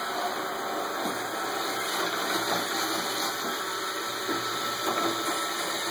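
Roomba robot vacuum running, a steady whir of its motor and brushes, with a few faint knocks as it moves.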